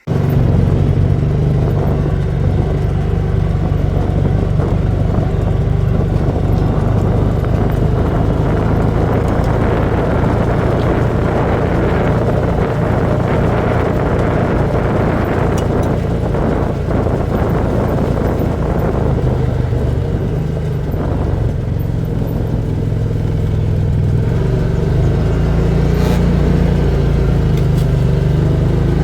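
Steady drone of a motor vehicle on the move, engine and road noise running evenly with no break.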